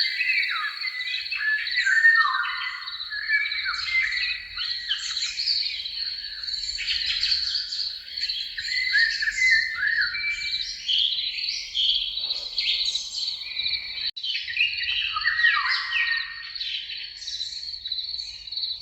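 Several birds chirping and singing at once, with many quick overlapping chirps and short falling whistles. A steady high-pitched whine sits beneath them, and the sound drops out briefly about fourteen seconds in.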